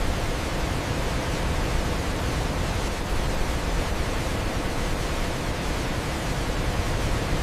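Waterfall: a steady, dense rush of falling water, even and unchanging, heaviest in the low end.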